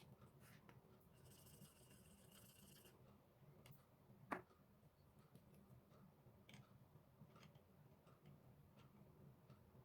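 Faint paper-crafting handling sounds: scattered small ticks and clicks, a soft scratching for about two seconds near the start, and one sharper click a little over four seconds in.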